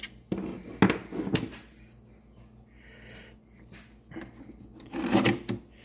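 Hand-tool work on a blower's tube clamp: a few sharp clicks and knocks about half a second to a second and a half in, then a short burst of rattling handling near the end.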